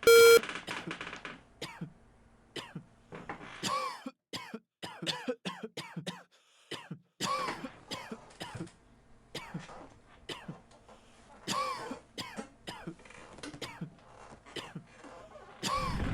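A short beep, then repeated coughing and throat clearing, many short separate coughs scattered throughout, played as exam-room background noise. Near the end a loud, steady noise starts.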